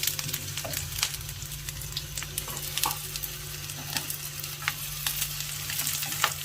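Sausage and garlic sizzling in hot oil in a frying pan while being stirred, with frequent short clicks and scrapes of the utensil against the pan.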